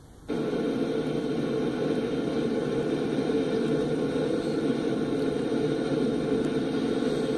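Steady rumble of freight cars rolling past on the rails, an even noise without distinct clanks or horn. The sound drops out briefly at the very start.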